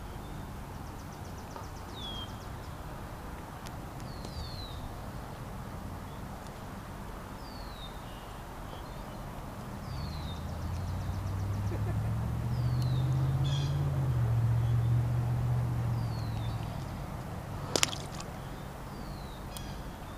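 Birds giving a short downward-slurred chirp every second or two, with a low engine drone swelling in about halfway through and fading away a few seconds later. A single sharp click near the end.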